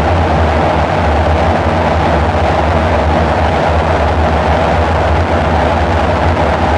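Dark ambient synthesizer drone: a steady, dense low rumble with a band of noisy hiss above it, unchanging throughout.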